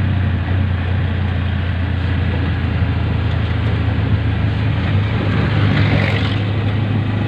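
Steady engine hum and road noise from a moving motor vehicle in traffic, an even low drone under a haze of wind and tyre noise.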